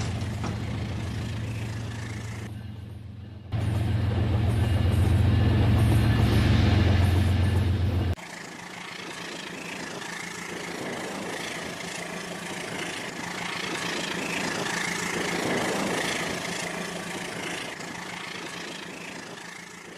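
Toy train running on its track: a steady low motor hum with rapid clicking, briefly dropping out about three seconds in. About eight seconds in the sound abruptly changes to a quieter, lighter running sound without the low hum.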